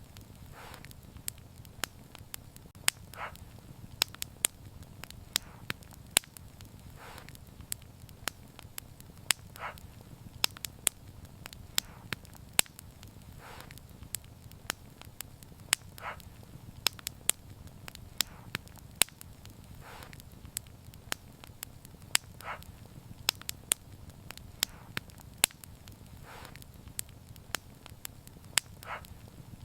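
Wood fire crackling: sharp, irregular snaps and pops over a steady low rumble of burning, with a softer hissing pop every few seconds.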